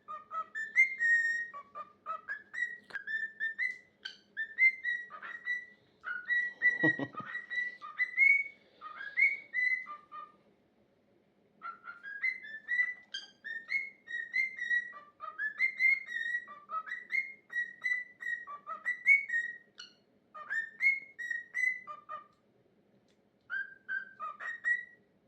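Male cockatiel whistling his own song: strings of short whistled notes that slide up and down, with two short pauses.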